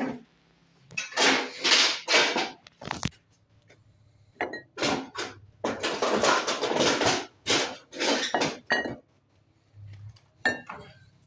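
Hard objects clattering, clinking and scraping in a string of rough, noisy bursts, like metal parts or tools being handled and set down.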